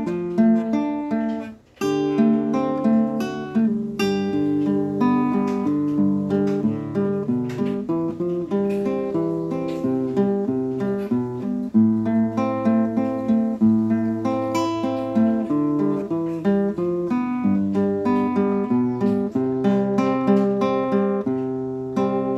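Acoustic guitar music: plucked notes and strummed chords, with a brief break about a second and a half in.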